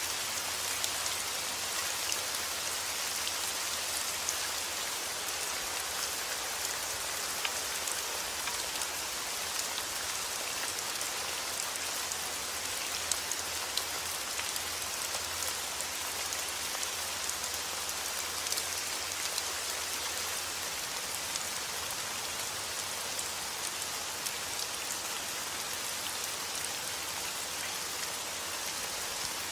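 Heavy rain falling steadily, a dense even hiss of drops with many small drop ticks on hard surfaces.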